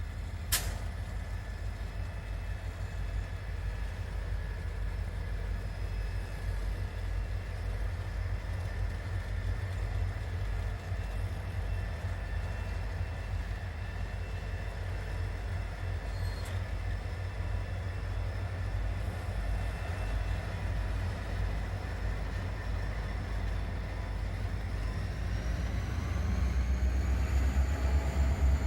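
Train running, most likely diesel locomotives, with a steady low rumble and a sharp click about half a second in. Near the end the engine tones rise in pitch and the sound grows louder.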